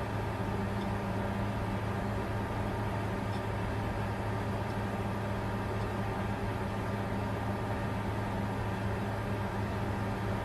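Bitcoin mining computer running steadily: an even rush of cooling-fan air with a constant low hum.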